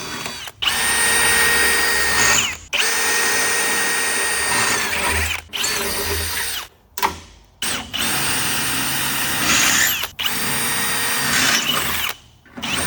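Milwaukee power drill boring out spot welds in the BMW E36's steel body shell. It runs in about five bursts of a few seconds each, each a steady whine that sags in pitch as the trigger is let go.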